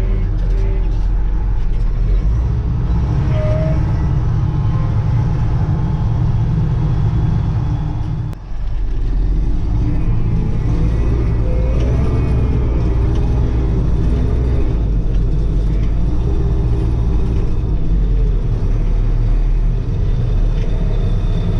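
Kirovets K-700A tractor's diesel engine running steadily during its run-in after a rebuild with new pistons and rings. The sound is a heavy low drone that briefly dips about eight seconds in.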